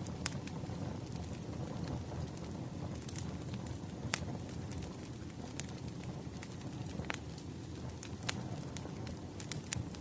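Wood fire burning: a steady low rumble with irregular sharp crackles and pops, a few louder ones about a second apart now and then.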